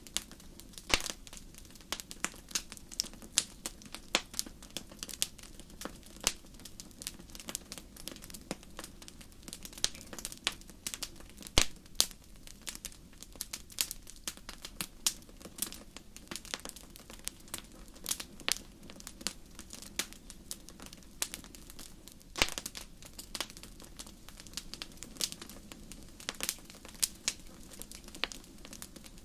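Wood fire crackling in a fireplace: irregular sharp pops and snaps, several a second, over a steady low hiss.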